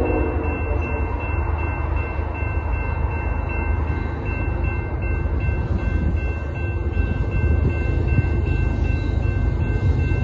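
Diesel freight train approaching a level crossing: a heavy, steady low rumble of locomotive and rolling wheels, with the last note of its horn ending right at the start.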